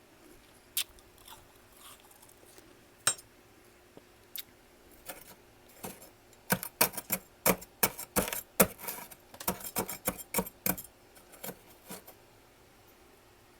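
Freezer frost crunching: a few scattered crisp cracks, then a dense run of quick crunches from about six to eleven seconds in, tapering off with a few more.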